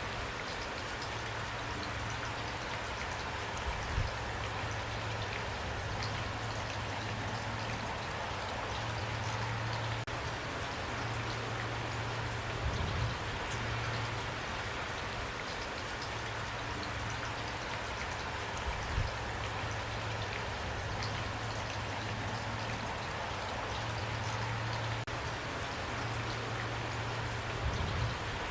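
Steady rain falling and pattering on a surface, an even hiss of drops with a few brief low thumps now and then.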